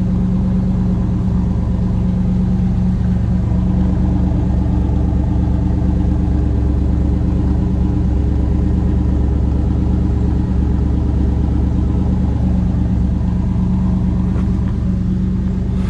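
1988 Pontiac Firebird Formula's tuned-port-injected V8 idling steadily, running on shortly after a cold start.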